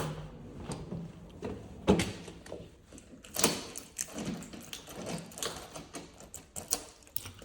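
Scattered clicks and knocks of things being handled, with a sharper knock about two seconds in and a quick run of clicks a little later.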